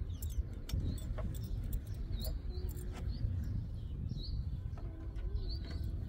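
A small bird chirps a few times in short high notes over a steady low rumble, with scattered light clicks.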